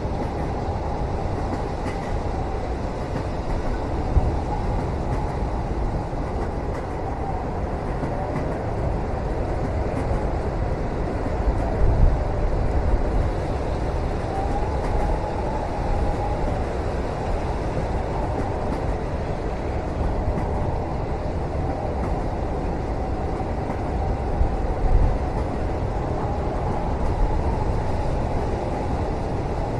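Steady rumble of a moving train heard from inside a passenger cabin, with a faint wavering whistle above it and a few brief louder knocks.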